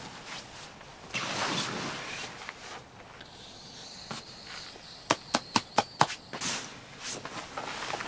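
Rustling and footstep-like handling noises, with a quick run of six sharp clicks about five seconds in, the loudest sounds here, and a faint thin high tone behind them.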